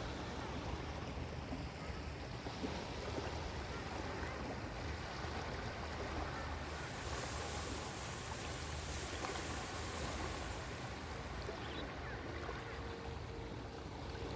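Sea waves washing onto a beach: a steady surf hiss over a low rumble, with a wave's hiss swelling up about seven seconds in and fading a few seconds later.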